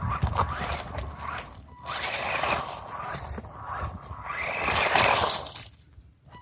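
Small electric RC stadium truck driving over dirt, its motor whine and tyres scrabbling, growing louder and fainter several times. The sound drops away briefly near the end.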